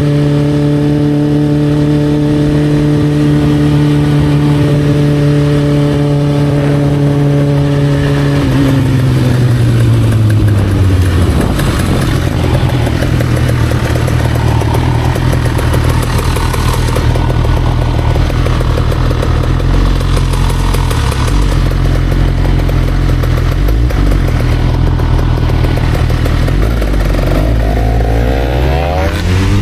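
Motorcycle engine holding a steady speed, then falling in pitch as it slows about a third of the way in. It runs low for a long stretch and rises again near the end as it accelerates.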